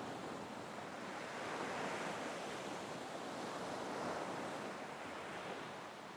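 Soft ocean surf: waves washing in as a quiet, steady hiss that swells gently twice, about two and four seconds in.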